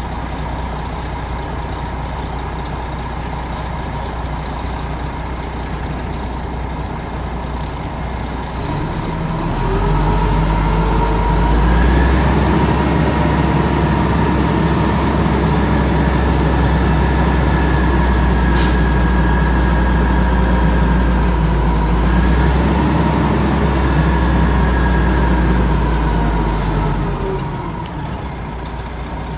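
Heavy engine running steadily, revving up about ten seconds in, held at higher revs for around fifteen seconds, then dropping back to idle.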